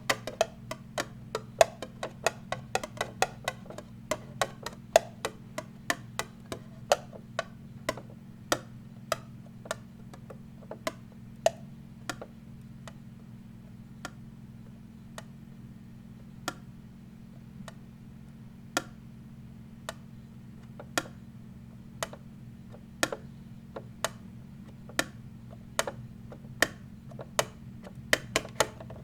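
Tapping on a hard object: sharp, crisp clicks, fast clusters at the start and again near the end, slower single taps in between, over a steady low hum.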